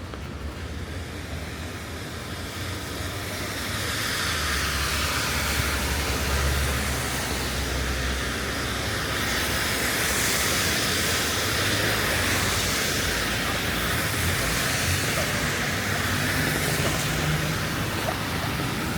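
Steady hiss of rain in a city street, with a low rumble of traffic underneath; it grows louder about four seconds in.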